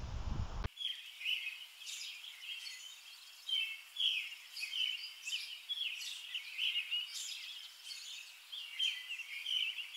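Small birds chirping: a busy run of short, quick chirps, many falling in pitch, that comes in with a sudden cut from indoor room noise less than a second in.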